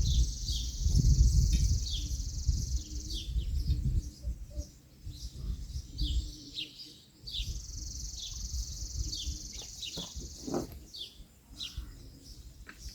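Outdoor birds chirping repeatedly in short, quick falling notes over a steady high insect buzz. Low wind rumble on the microphone is strongest in the first few seconds, and a few light knocks come near the end.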